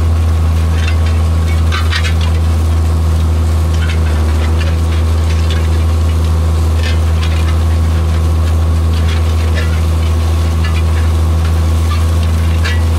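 Vintage John Deere tractor engine running steadily at a constant speed, close to the microphone, with scattered light rattles and ticks over it.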